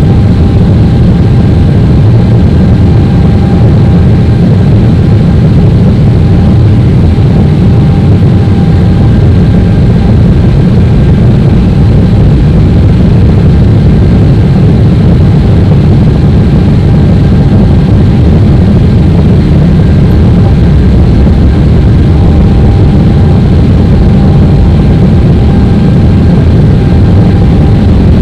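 Boeing 777-300ER jet engine and airflow noise: a steady, loud low rumble with a faint constant whine above it.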